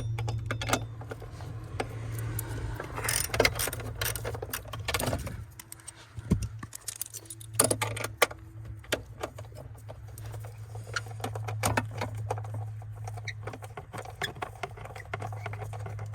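Metal tool clicks and clinks from a ratchet and socket working a nut off a stud under the dashboard, in scattered clusters, over a steady low hum.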